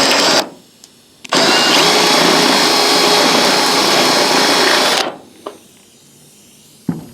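Drill spinning a spot weld cutter bit through a spot weld in a steel roof skin. It runs briefly, stops for about a second, then runs steadily again for nearly four seconds before cutting off, followed by a couple of light clicks.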